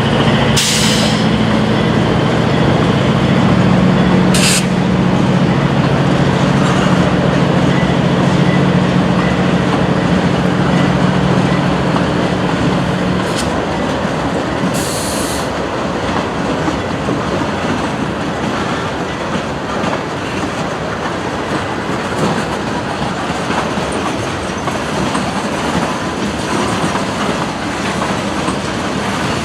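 Freight train passing: the diesel locomotives' engines drone for the first dozen seconds, then fade out as the freight cars roll by with steady wheel-on-rail clatter. A few brief shrill wheel squeals cut in along the way.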